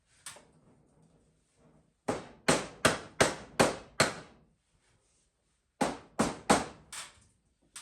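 Hammer blows: a faint knock, then a run of six quick, even strikes, a pause of about two seconds, and four more strikes.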